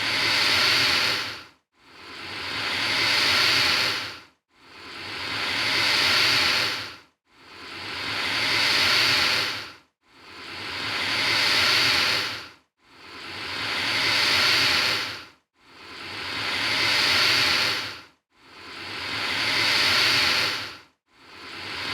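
Alligator hissing in long breathy hisses, one about every three seconds, each swelling and then fading with a brief silence between, evenly repeated like a loop.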